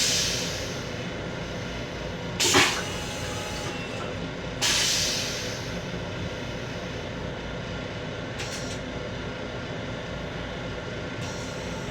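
Steady running rumble of a Long Island Rail Road M7 electric railcar, heard from inside its restroom. Two short bursts of hiss break in, about two and a half and four and a half seconds in; the second one fades away over about a second.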